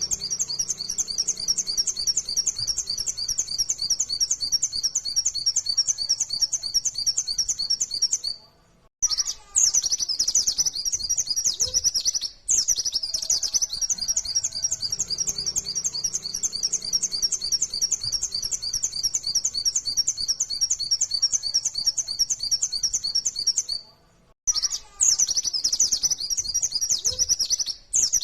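Pleci (white-eye, Zosterops) singing a fast, continuous run of high chirping notes. The song breaks off briefly twice.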